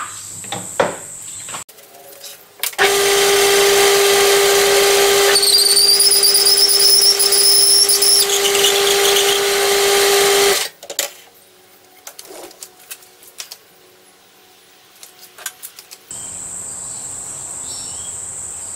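Metal lathe running at low speed while an expanding reamer cuts through the bore of a model steam engine's cylinder casting: a steady hum with a high, wavering squeal for a few seconds midway, the reamer chattering in the bore. The lathe stops abruptly, and light clicks of small tools being handled follow, with crickets chirping steadily before and after.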